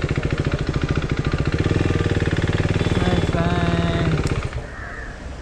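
KTM Duke 390's single-cylinder engine running at low speed with a rapid, even beat as the motorcycle moves slowly forward, then cutting off about four and a half seconds in.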